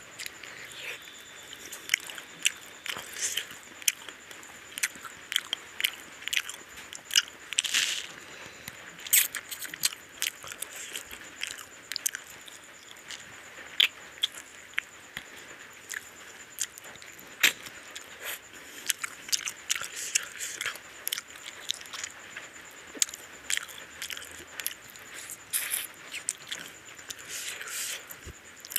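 A man eating chicken curry and rice with his hand, close to the microphone: wet chewing and lip-smacking, with irregular sharp smacks and clicks all the way through.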